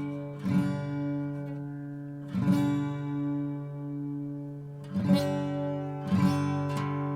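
Art & Lutherie Wild Cherry acoustic guitar strummed slowly, four chords each left to ring out before the next.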